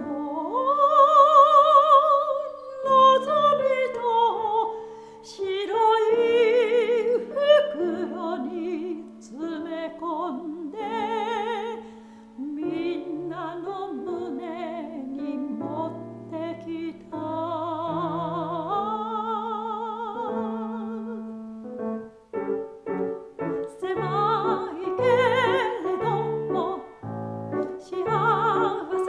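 Soprano voice singing a Japanese art song with wide vibrato, accompanied by piano. In the last several seconds the piano plays short, separated chords under the voice.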